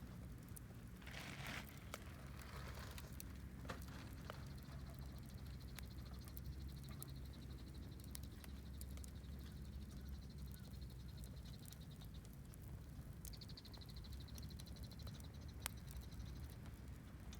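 Wood fire crackling faintly, with scattered small snaps and a couple of louder pops, over a steady low rumble and a faint high trill.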